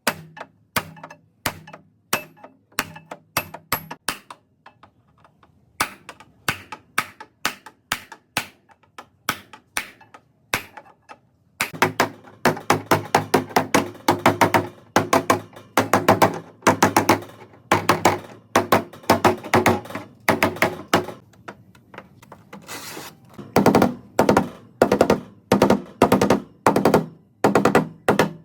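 Hammer blows on car body sheet metal, repeated strikes with a short metallic ring. They come about twice a second at first, then grow faster and louder about halfway through.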